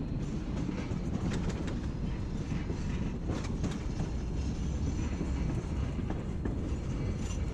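Narrow-gauge passenger train rolling along the track: a steady low rumble from the cars, with scattered clicks and knocks from the wheels on the rails.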